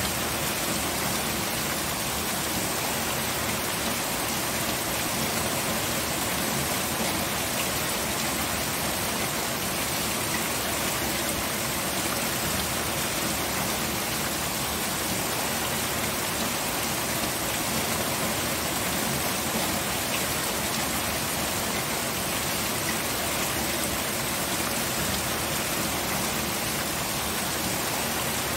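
Steady rain falling, an even, continuous hiss of drops with no change in strength.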